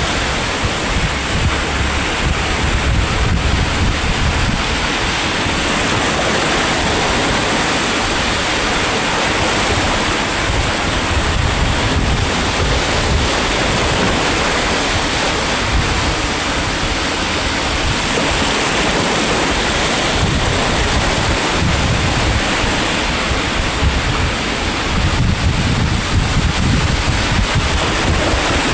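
Sea waves surging and washing on a shore in a steady, continuous wash, with wind buffeting the microphone in low gusts.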